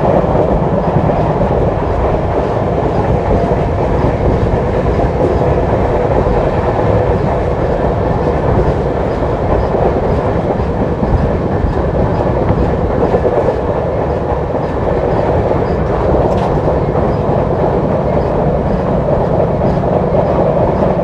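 Express train coaches running at high speed, a steady loud rumble with wheels clattering over the rails, heard from an open coach doorway.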